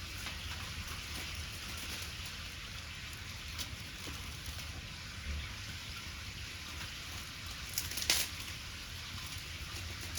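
Wood bonfire crackling: a steady hiss with scattered small pops, and one loud sharp pop about 8 seconds in.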